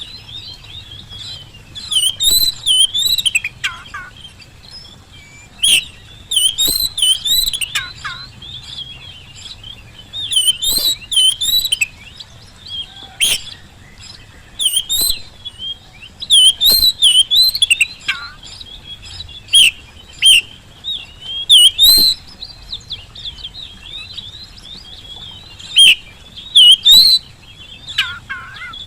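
Oriental magpie-robin singing in the lively, full song that keepers call gacor: bursts of rapid whistled notes with sharp upward and downward slurs, coming every few seconds with short pauses between.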